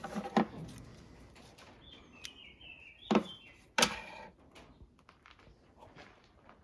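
Three sharp knocks, the last two close together, with a few short high chirps, like a bird's, between the first and second.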